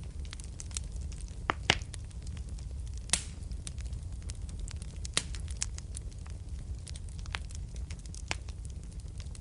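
Wood fire crackling in a fireplace: a steady low rumble of the flames with frequent sharp pops and snaps at irregular moments, the loudest pops about one and a half seconds in, about three seconds in and about five seconds in.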